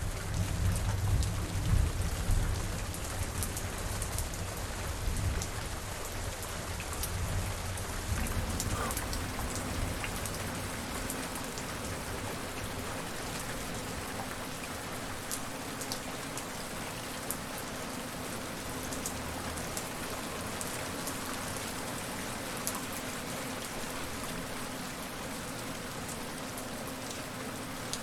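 Steady rain falling, with scattered sharp drop ticks. A low rumble of thunder fills the first several seconds and then dies away.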